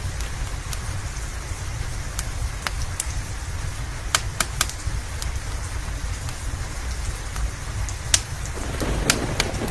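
Steady rain hiss over a low rumble, with sharp crackles and pops from a wood fire scattered through it. The loudest pops come about four seconds in and again about eight seconds in.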